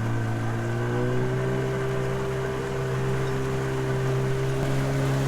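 Motorboat engine running steadily under way, its pitch edging up slightly about a second in.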